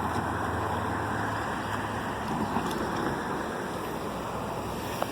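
Steady outdoor traffic noise: a low vehicle engine hum fades away over the first couple of seconds, leaving a constant rushing background.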